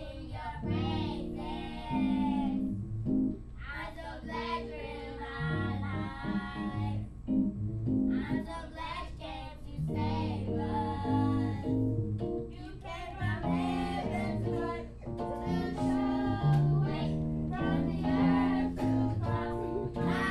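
Young voices singing a gospel praise song over instrumental accompaniment with steady bass notes.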